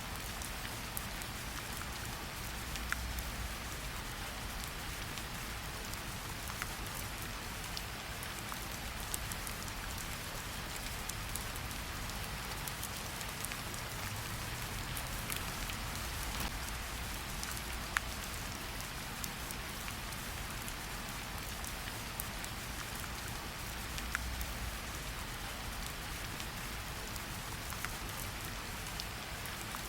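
Steady rain falling, an even hiss with scattered single drops ticking sharply on top.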